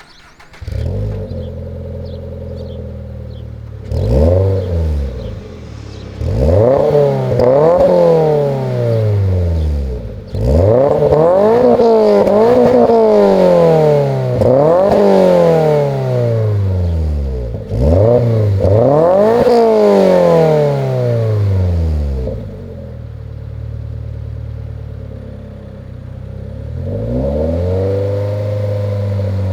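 Toyota GR86 / Subaru BRZ 2.4-litre flat-four heard through a Remark Elite Spec stainless catback exhaust, being blipped and revved repeatedly from idle. Each rev falls back toward idle, and the revs come fast one after another in the middle. The engine then idles and rises to a steadier, higher note near the end.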